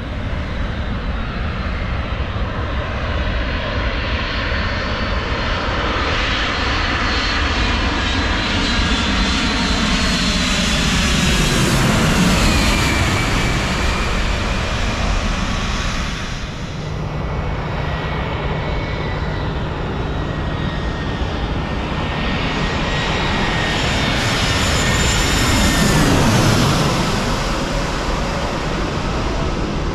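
Airliner's jet engines passing low overhead on landing approach: a loud roar swelling to a peak with a falling whine about twelve seconds in, easing, then swelling to a second peak with another falling tone near the end.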